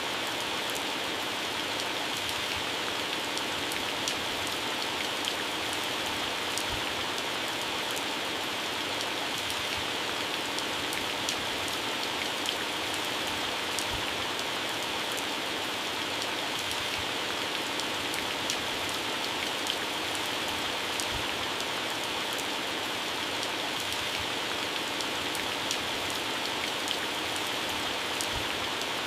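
Heavy rain falling steadily on plants and grass, with a constant hiss and many individual drops pattering on leaves.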